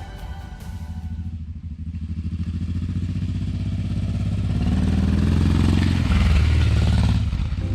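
Honda Transalp V-twin motorcycle engine pulling away and accelerating, getting steadily louder, with wind rush building as it gathers speed. The revs climb and then drop about six seconds in as it shifts up a gear.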